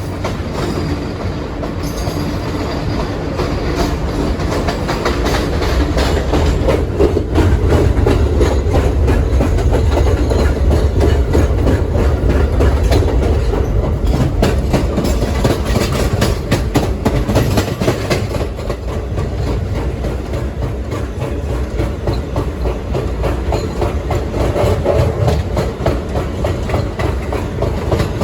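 R160B Siemens subway train running along the track, heard from inside the car: steady rumble of wheels on rail with repeated clickety-clack of the rail joints. It grows louder over the first several seconds as the train picks up speed.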